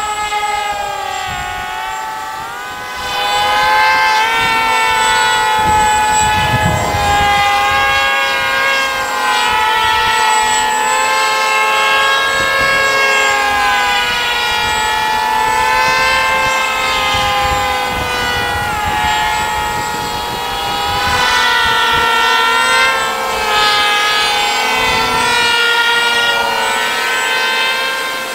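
Several small brushless electric motors with propellers on RC flying wings buzzing together in flight. Their pitches rise and fall independently as throttle and airspeed change, and they get louder about 3 s in.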